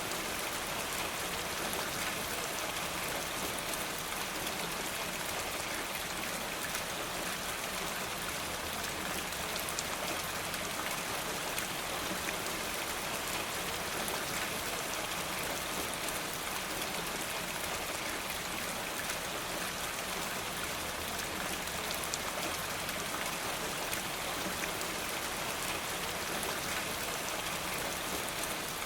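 Steady rain falling through trees, an even hiss of many drops without let-up.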